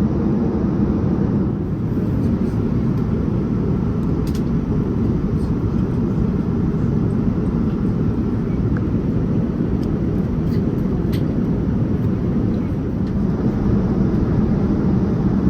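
Steady low rumble and rush of airflow and engines heard inside the cabin of a Boeing 787-9 Dreamliner in flight.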